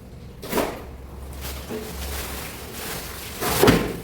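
Two sharp thuds, a lighter one about half a second in and a louder, longer one near the end, over a steady low hum.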